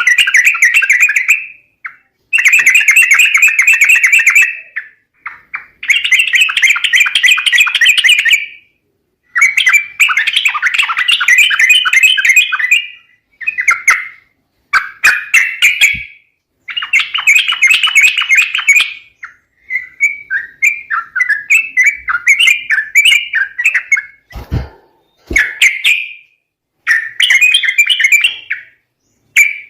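Yellow-vented bulbul (trucuk) calls used as a lure sound for trapping: bouts of rapid, chattering notes a few seconds long, repeated with short pauses. There are two dull knocks near the end.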